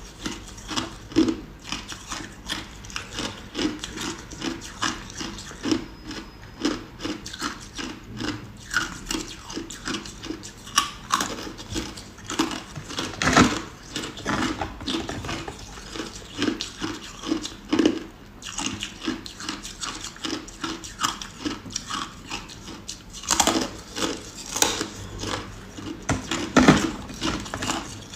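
Ice being chewed close to the microphone: a rapid, irregular run of crunches as the cubes are bitten and crushed between the teeth, with a few louder cracks.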